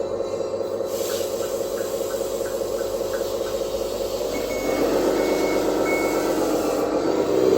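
Electronic truck engine sound from an RC truck's sound module, running steadily and growing louder about four seconds in. At that point a reversing beeper starts, giving short high beeps about every 0.7 seconds.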